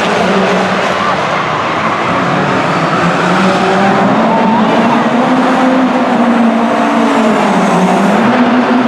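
Classic car engine driven hard on a show circuit, its pitch rising and falling with the throttle, dipping briefly near the end before picking up again.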